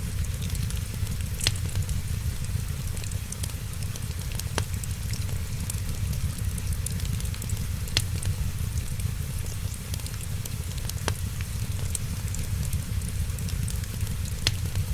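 Wood fire crackling, with a sharp pop every three seconds or so and small ticks between, over a steady low rumble and the hiss of rain.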